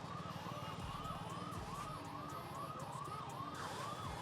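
Electronic emergency-vehicle siren in a fast yelp, each cycle rising and falling in pitch about two and a half times a second, over a low steady hum.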